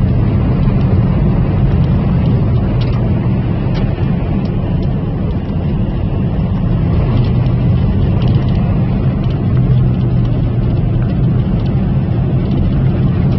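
Steady low rumble of a motor vehicle running, with a few faint ticks over it.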